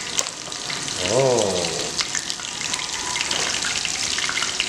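Pieces of salt-fermented duck (burong pato) frying in shallow oil in a pan, a steady sizzle with many small crackles.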